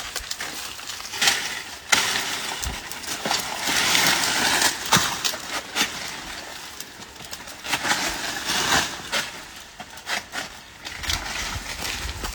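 Dry banana leaves and stalk rustling and crackling as the plant is handled, with scattered sharp snaps and knocks.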